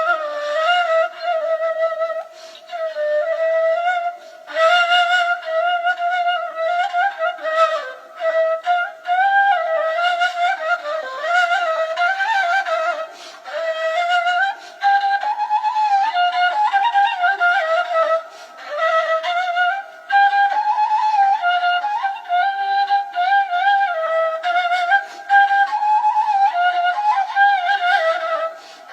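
A solo flute plays a slow, ornamented melody in phrases, with brief pauses between them.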